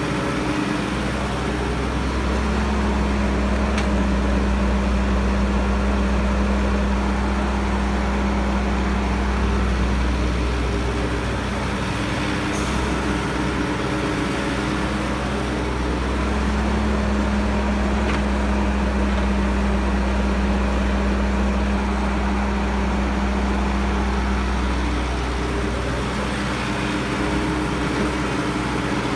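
Caterpillar E315B hydraulic excavator's diesel engine running steadily. It works harder and grows louder twice, each time for several seconds, as under hydraulic load while digging and loading soil.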